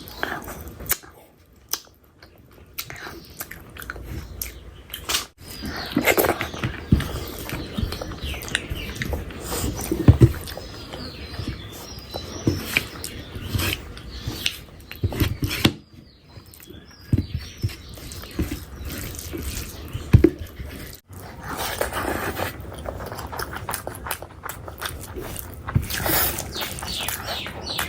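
Close-miked chewing and biting of fish curry and rice: irregular wet mouth clicks and smacks, with a few sharper snaps.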